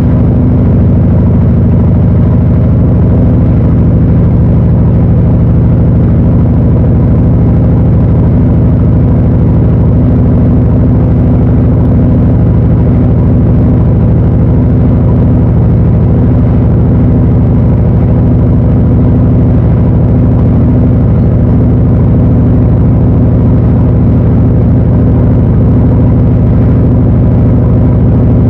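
Panasonic NA-FA80H8 top-loading washing machine running with a loud, steady, low motor hum that does not change.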